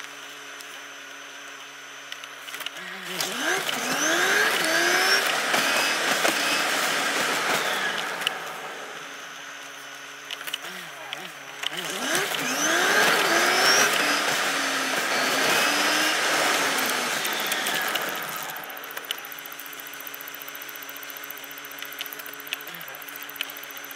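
A car's engine heard from inside the car. It hums steadily at low revs, then rises into two long swells of acceleration, each with repeated upward sweeps in pitch. It settles back to a steady hum near the end.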